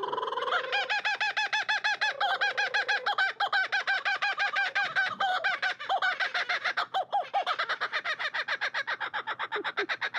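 A pair of laughing kookaburras calling: a long, rapid run of repeated hoarse, cackling notes, several a second, in the birds' typical laughing chorus.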